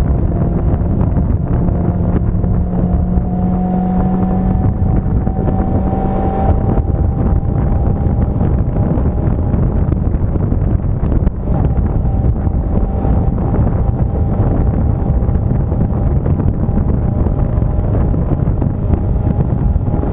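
Wind rushing over a motorcycle-mounted camera's microphone, with the motorcycle's engine running underneath. A faint engine tone climbs slowly over the first several seconds, then holds steady.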